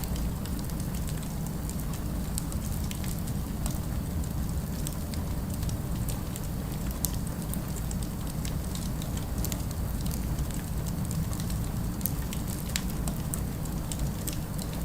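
Fire crackling: scattered sharp snaps and pops over a steady low rumble of city ambience.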